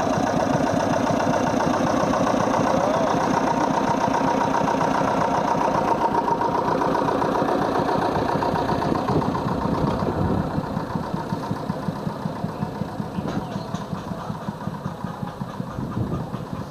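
Vintage tractor engine running with an even firing beat, loud at first and growing quieter in the last several seconds.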